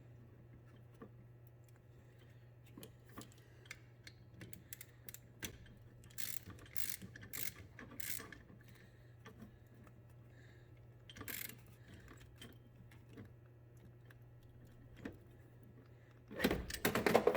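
Socket wrench and metal hand tools clicking and clinking in scattered bursts while the nut on the alternator is worked, over a faint steady low hum, with a louder clatter of handling near the end.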